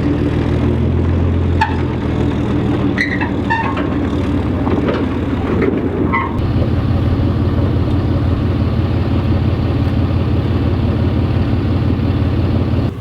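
A vehicle engine running steadily, with a few sharp clicks and knocks during the first six seconds.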